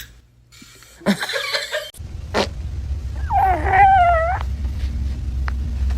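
A cat gives one drawn-out, wavering meow a little past the middle, over a low steady hum. A short noisy burst comes about a second in.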